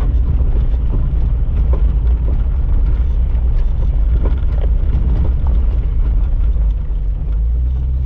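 Jeep Cherokee XJ engine and drivetrain droning steadily while climbing a rough mountain road, with scattered small knocks and rattles. Near the end the drone eases slightly into a steadier hum.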